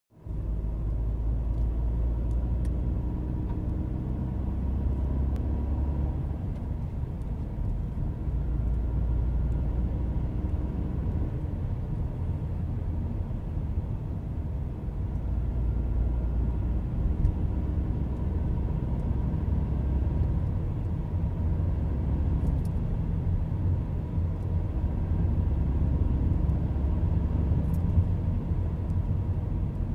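Volkswagen Golf Sportsvan 1.4 TSI driving, with a steady low running rumble. A faint whine comes and goes over it: the strange gearbox sound the owner is asking about.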